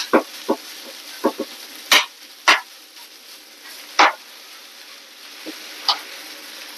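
Food sizzling steadily in a pot while a spoon stirs it, with sharp, short scrapes and knocks of the spoon against the pot at uneven intervals, the loudest about two and four seconds in.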